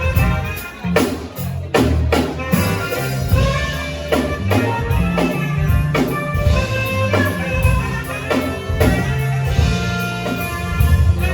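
Band music with a drum kit keeping a steady beat over bass and sustained instrument notes.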